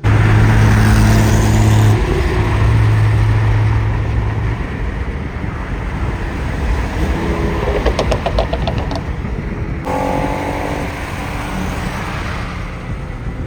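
Car engines at full throttle, revving and accelerating hard in roll races. A steady high engine drone holds for the first few seconds, and a quick run of popping comes about eight seconds in.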